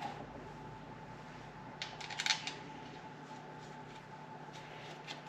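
Torque wrench ratcheting on camshaft cap and rocker assembly bolts of a Subaru EJ25 cylinder head: short bursts of small metallic clicks about two seconds in and again near the end. A faint steady hum runs underneath.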